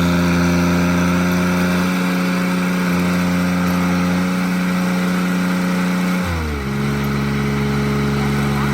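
Tractor diesel engine running steadily, then dropping to a lower speed about six seconds in and holding there.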